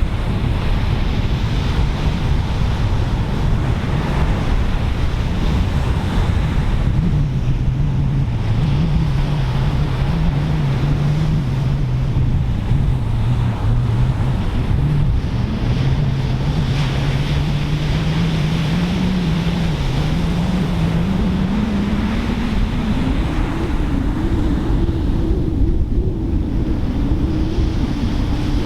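Pacific Ocean surf breaking and washing ashore, with wind buffeting the microphone, as a steady rush. A faint low hum joins about a quarter of the way in and rises in pitch in the last third.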